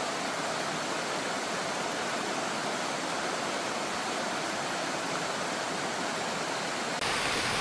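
Steady rushing of a jungle river flowing close by, an even noise that shifts slightly about seven seconds in.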